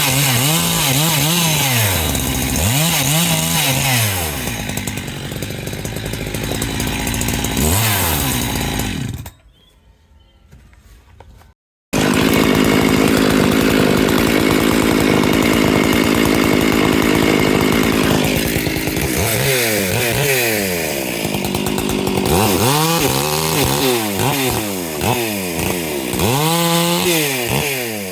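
Large two-stroke chainsaw of the 70–80 cc class revving up and down several times, then held steady at full throttle for several seconds as it cuts firewood, then revved up and down again. A short near-silent break comes about a third of the way in.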